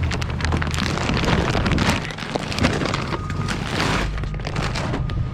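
Rummaging in a dumpster: plastic trash bags crackling and rustling, with knocks of items being moved, over a steady low hum.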